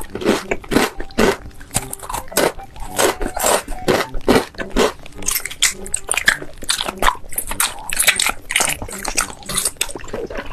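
A person eating close to the microphone: crunching and chewing food, with a quick, irregular run of crisp bites, several a second.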